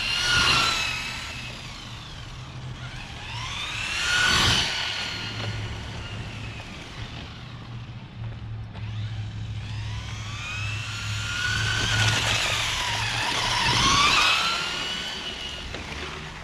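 Traxxas 4-Tec 3.0 Corvette Stingray RC car's electric motor whining as the car drives past several times. The pitch climbs as it comes in and drops as it goes away, with the loudest passes about half a second in, around four seconds, and again between twelve and fourteen seconds.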